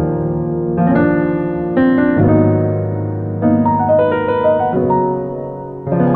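Soft piano music: slow chords and melody notes struck and left to ring.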